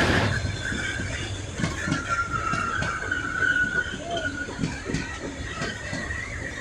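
Freight train hauled by a VL80T electric locomotive rolling past, wheels knocking again and again over rail joints, with a thin, wavering high squeal from the wheels on the rails.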